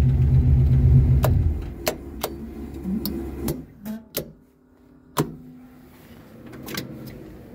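The Camaro's boosted LS V8 runs with a steady low rumble, then shuts off about a second and a half in, and the rumble dies away over the next two seconds. A series of sharp clicks follows as the toggle switches on the dash-side switch panel are flipped off.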